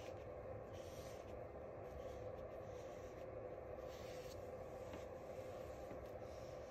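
Small paintbrush making soft, repeated brushing strokes as paint is laid on, about one stroke a second, over a steady faint hum.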